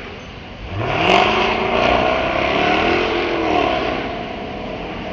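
Jaguar sports car engine accelerating hard, its pitch climbing steeply about a second in, holding, then dropping back and fading after about three seconds.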